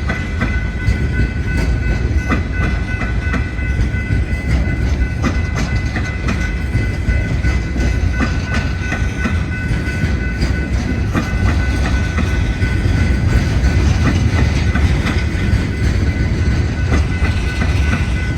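Coal train's hopper cars rolling past: a steady low rumble with frequent clicks from the wheels, and two steady high-pitched tones running through it.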